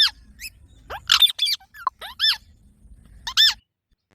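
Green parrot giving a series of short, high, squeaky calls, each with an arching pitch, about half a dozen over three and a half seconds, then stopping.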